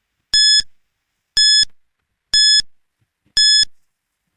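Quiz countdown timer sound effect: a short, high electronic beep once a second, four times.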